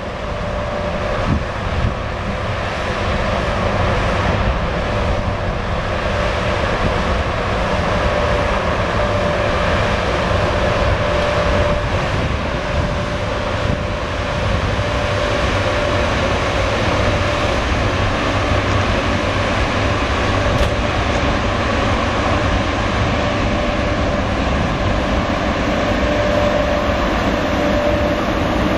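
VL40 electric locomotive hauling a 16-car passenger train slowly away from the station: a steady rumble of the train on the rails, with a thin whine that comes and goes over it.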